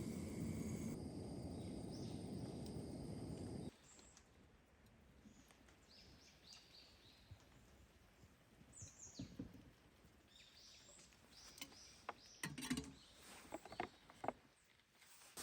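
A steady low rushing noise cuts off about four seconds in. Then comes quiet forest ambience with scattered short, high chirps of small birds, many falling in pitch, and a few sharp clicks near the end.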